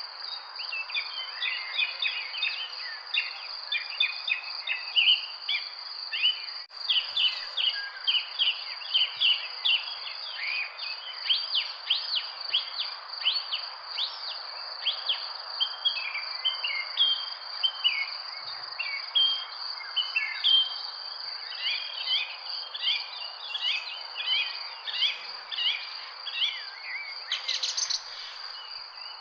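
Many park birds chirping and calling in a dense, overlapping chorus over a steady high insect trill and a constant background hiss.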